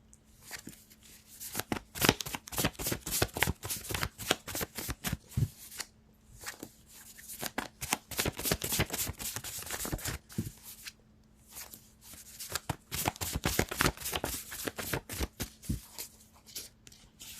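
A deck of tarot cards being shuffled by hand: spells of rapid riffling clicks with short pauses between them, over a faint steady hum.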